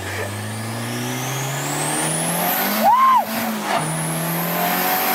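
Turbocharged car accelerating hard at full throttle, engine pitch climbing through a gear. About three seconds in there is a gear shift with a brief squeal, then it pulls and climbs again in the next gear.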